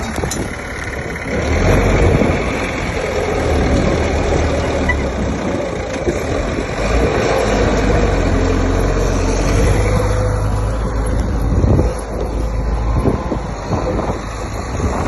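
Diesel engine of heavy earthmoving machinery running under load with a steady low rumble, its loudness rising and falling slightly.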